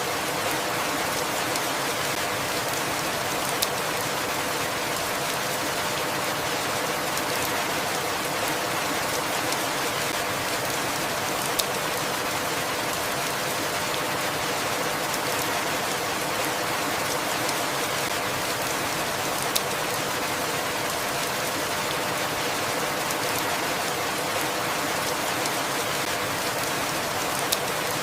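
Steady rain falling with an even hiss, broken by a single sharp tick about every eight seconds.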